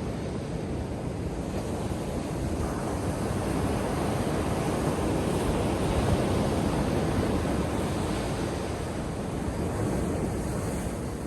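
Ocean surf breaking and washing up a beach as a continuous rushing noise. It swells to its loudest about halfway through, then eases off.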